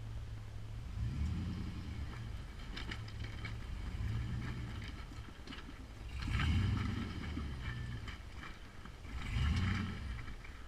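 LS V8 engine of a rock-crawling Jeep TJ running at low revs, with several short bursts of throttle, the loudest about six and a half and nine and a half seconds in. Scattered light clicks ride over it.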